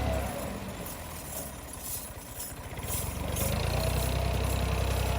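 Ghazi 65 tractor's diesel engine running; it eases off for about three seconds, then picks up again and runs steadily.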